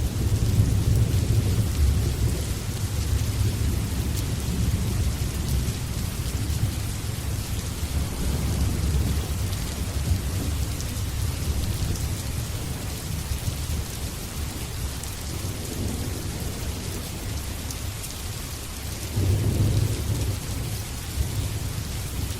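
Steady rain with low rolling thunder, which rumbles loudest at the start, fades over the following seconds and swells again near the end.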